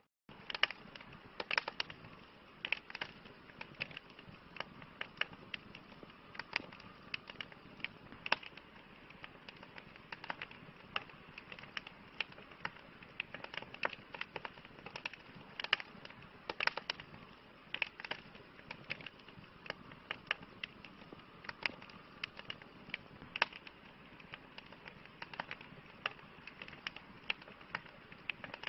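Wood fire crackling: a steady soft hiss of burning with frequent sharp pops and snaps at irregular intervals.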